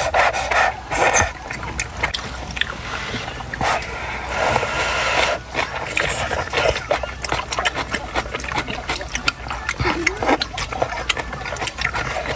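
A person eating hot food close to the microphone: chewing, with many short smacks and clicks and a few longer noisy stretches of slurping.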